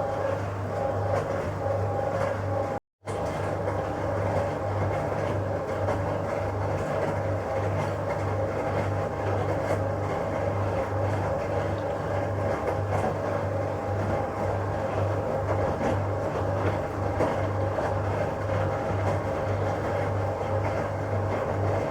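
1966 Bendix LA front-loading washing machine running its first rinse: a steady motor hum that pulses evenly, with a couple of steady higher tones over it. The sound drops out briefly about three seconds in.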